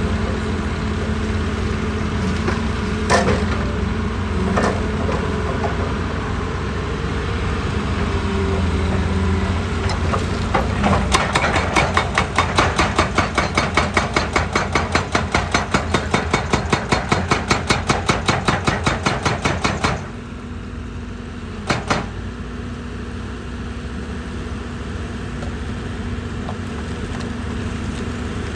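Heavy diesel machinery running steadily. A little over a third of the way in, a rapid mechanical hammering starts at about five blows a second, as from a hydraulic breaker or percussion drill working rock. It stops abruptly after about nine seconds, and a single knock follows shortly after.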